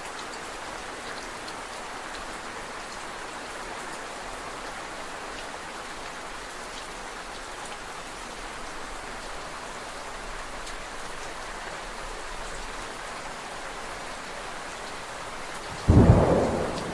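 Steady rain falling, with a sudden loud, deep clap of thunder about a second before the end.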